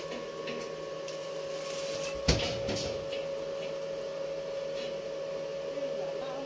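A steady machine hum holding one constant tone, with a single sharp knock a little over two seconds in.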